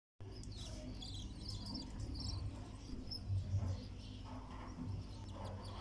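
Newborn cockatiel chicks squeaking in short, high, scattered chirps, the begging calls of chicks at feeding time, over a low steady hum.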